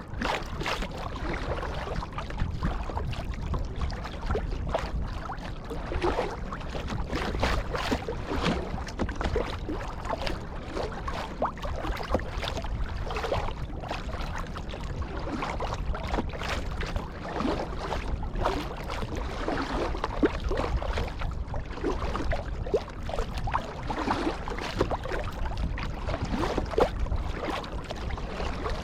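Kayak paddling on sea water: paddle blades splashing in and dripping, with water sloshing around the hull.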